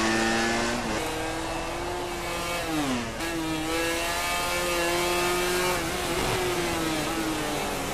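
MotoGP racing motorcycle engine running at high revs. Its pitch climbs slowly, then falls sharply and picks up again about three seconds in as gears change.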